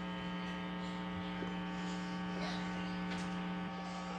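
Steady electrical hum with many overtones, unchanging in level throughout.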